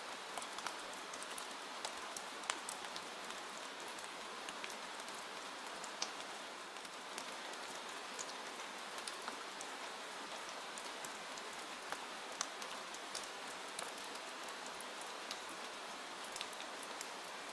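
Steady rain with individual drops ticking sharply against a window pane.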